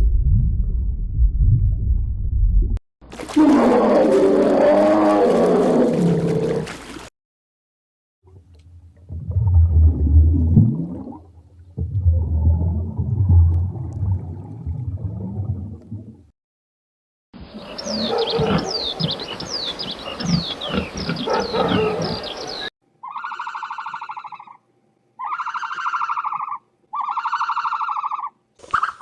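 A run of separate animal calls: low rumbling and growling, a loud roar-like call, then a chorus of many quick falling whistles, and near the end three evenly spaced pitched calls.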